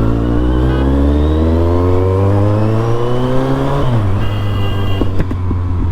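Kawasaki Z800's inline-four engine through an Arrow titanium exhaust, accelerating with its pitch rising steadily for about four seconds, then dropping abruptly and running on at a lower pitch.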